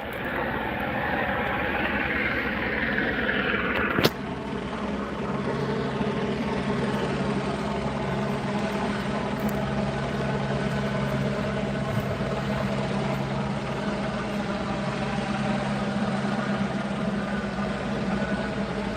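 A vehicle engine idling with a steady hum. There is a sharp click about four seconds in.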